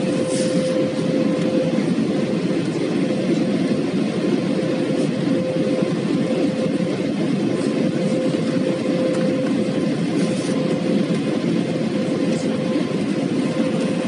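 Airbus A320 cabin noise in flight: a steady low roar of engines and airflow, with a constant hum held on one pitch throughout.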